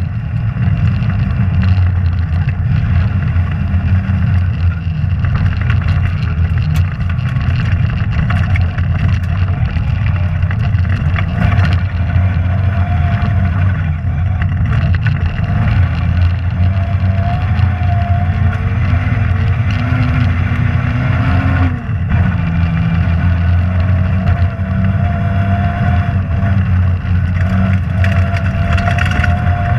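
Rally car engine running hard under load, its note rising and falling as the car is driven through the stage. The note climbs steadily and then drops sharply with a brief dip in loudness about two-thirds of the way through.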